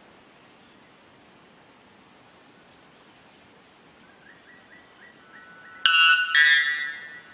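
White bellbird giving its explosive two-note call, very loud and ringing, the second note about half a second after the first. A steady high insect buzz runs under it, with faint short notes just before the call.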